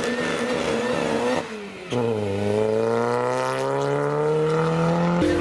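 Sports car accelerating away. Its engine note breaks off briefly about a second and a half in, then climbs steadily for about three seconds, and drops sharply at an upshift near the end.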